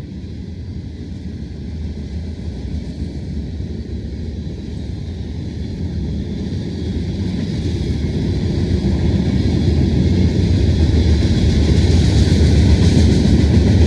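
Diesel locomotives of a freight train approaching, a low engine and rail rumble growing steadily louder.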